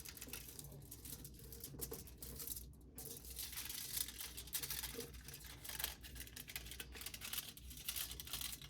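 Sheet of aluminium foil crinkling as it is handled and folded by hand: quiet, irregular crackles.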